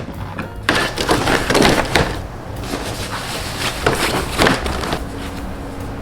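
Rustling and light knocks of clothes and belongings being handled and packed into a large suitcase, in irregular bursts.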